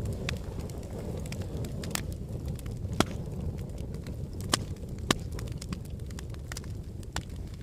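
Wood fire burning in a fireplace: a steady low rumble of flames with scattered crackles, and three sharp pops about three, four and a half and five seconds in.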